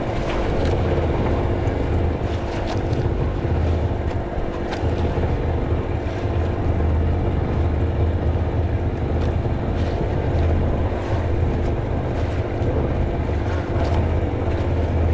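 A motor running steadily with a low drone, with scattered small clicks and ticks over it.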